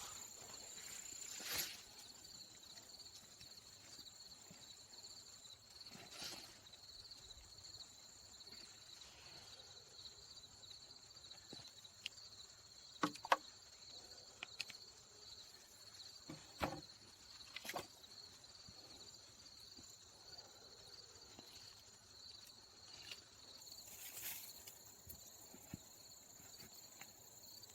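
Crickets trilling steadily in a continuous high-pitched drone, with a few faint sharp clicks or knocks in the middle stretch.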